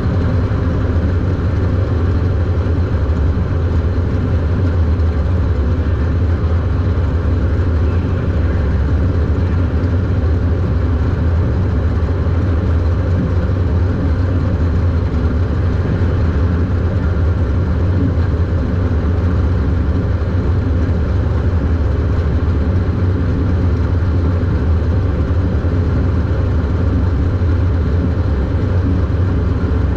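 Super Stock race car engine running at a steady pitch, a loud low drone heard from inside the car.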